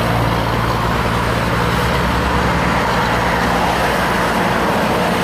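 Road traffic with a heavy truck passing: a steady diesel engine hum over continuous tyre and road noise, the engine hum fading out about four seconds in.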